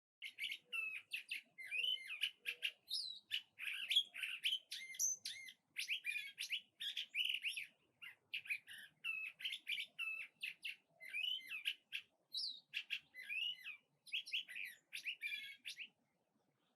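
Songbirds singing a rapid, varied, melodious song of whistled notes and sliding phrases, almost without pause, which stops suddenly near the end.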